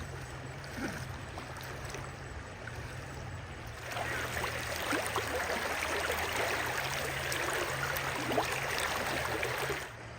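Water splashing and sloshing over a low steady hum, growing louder about four seconds in and cutting off suddenly near the end.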